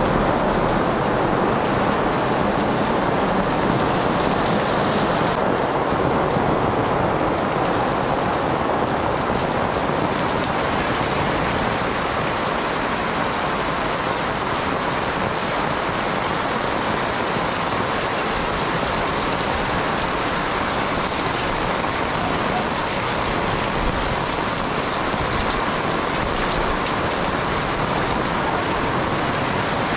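Torrential rain falling steadily and splashing on wet concrete pavement.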